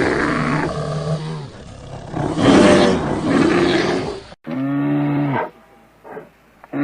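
Animal calls: rough, noisy growling calls for about the first four seconds. Then, after a sudden cut, a steady low-pitched call lasting about a second, and another beginning near the end.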